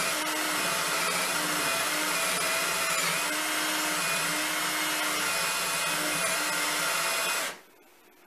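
An electric motor running steadily with a loud rushing noise, cutting off abruptly near the end.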